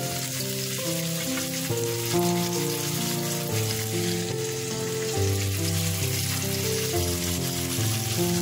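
Chicken pieces sizzling on a hot grill pan, a steady crackling hiss, under a background music melody of changing notes.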